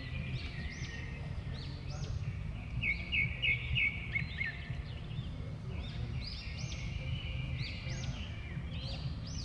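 Several small birds chirping and twittering, with a quick run of five notes about three seconds in, over a low steady rumble.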